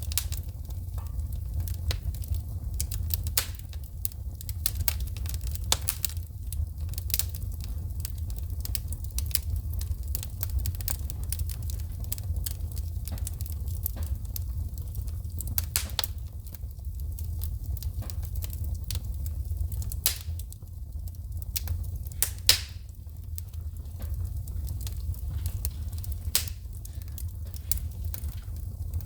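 Wood fire burning in a fireplace: a steady low rumble with frequent sharp crackles and popping sparks from the burning logs, one pop louder than the rest about three-quarters of the way through.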